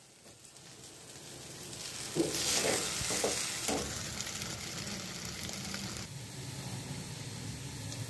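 Spiced potato filling frying in a steel kadai: a steady sizzle that builds over the first two seconds, with a perforated metal spatula scraping and tapping the pan a few times between about two and four seconds in.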